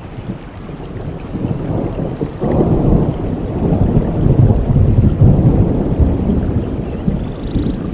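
Steady rain with a long, deep roll of thunder that swells about two and a half seconds in, is loudest around the middle and slowly eases off.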